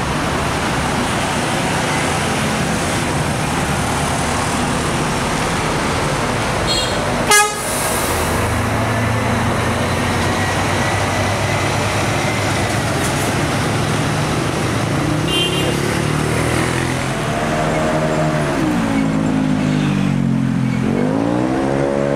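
The six-cylinder diesel engine of a Scania K410iB double-decker coach runs as the coach pulls away. About seven seconds in there is a single short, sharp, loud burst. Near the end the engine note falls and climbs again as it revs.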